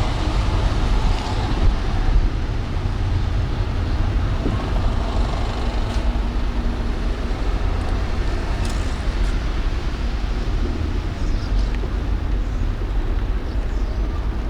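A car driving through city traffic: steady road and traffic noise with a heavy low rumble.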